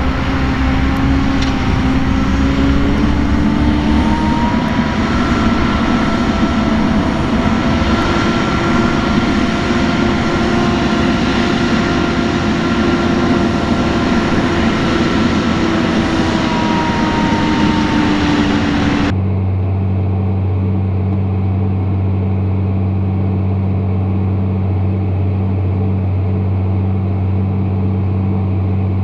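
Tractor engine running steadily, its pitch rising slightly a few seconds in and sagging again later. About two-thirds of the way through the sound cuts abruptly to a steadier, duller low engine drone.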